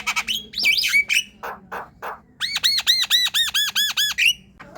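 Javan myna singing: a jumble of whistled glides and harsh squawks, then a rapid run of about nine identical arched whistled notes, about five a second, in the second half.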